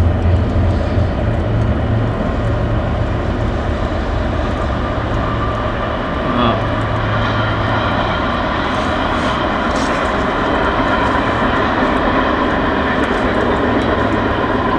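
Train running past on the rails: a steady loud rumble of wheels and cars, with a low engine drone that fades out about two seconds in and comes back for a while around six seconds and again from about twelve seconds.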